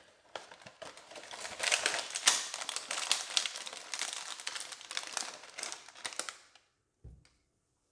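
Plastic cookie packaging crinkling and crackling as it is handled and opened, stopping after about six and a half seconds. A single soft thump follows shortly after.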